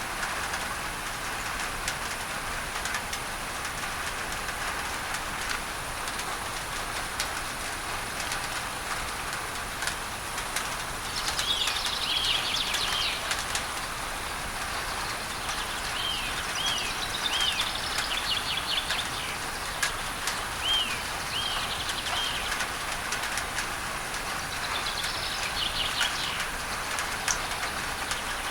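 Steady rain on a tin roof, with scattered sharp drop ticks, under a constant hiss of added masking noise. From about a third of the way in, birds call in short, repeated arched chirps, in several separate bouts.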